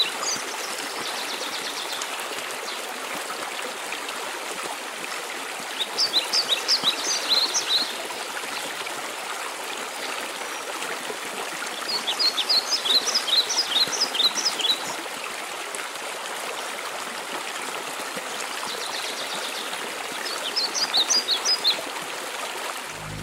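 Steady rush of a waterfall. A songbird sings a short burst of quick high notes three times, about every six to eight seconds.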